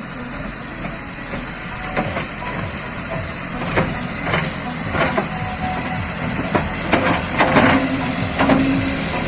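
Tractor engine running steadily as a mounted front loader is worked, with a series of sharp metallic knocks and clanks that come more often in the second half.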